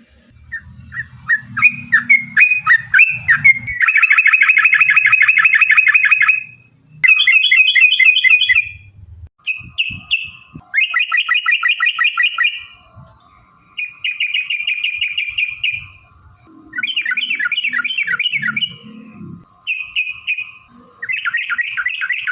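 Yellow-vented bulbul (trucuk) singing in long, rapid rolling runs. Each phrase is a fast burst of repeated chattering notes lasting one to three seconds, with brief pauses between phrases.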